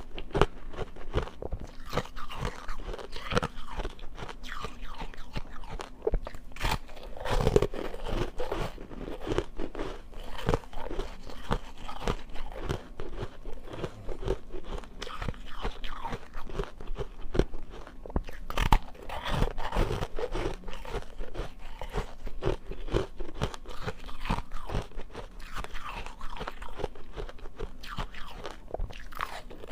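Ice being bitten and chewed close to the microphone: a dense run of irregular crunches and cracks.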